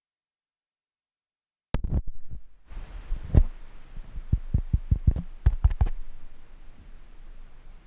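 Dead silence, then a run of sharp clicks and knocks from about two to six seconds in, then the steady hiss of a Rode shotgun microphone's noise floor recorded through the Blackmagic Pocket 4K's preamps, a hiss the owner finds incredibly noisy.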